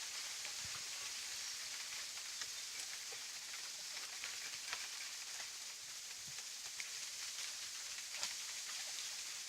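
Small campfire of burning straw and dry twigs crackling: a steady hiss with scattered sharp pops and snaps.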